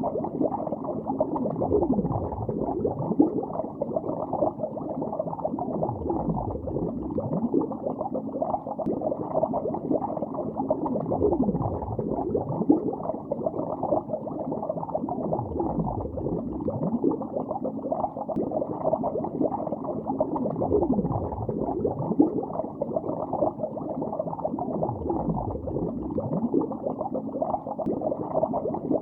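Underwater bubbling heard as if submerged: a continuous muffled stream of bubbles with many short gurgles falling in pitch. It runs evenly throughout, with no highs.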